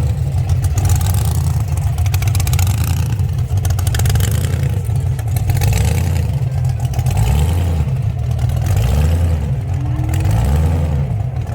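A car engine running with a heavy low rumble, revved in several short blips that rise and fall in pitch in the second half.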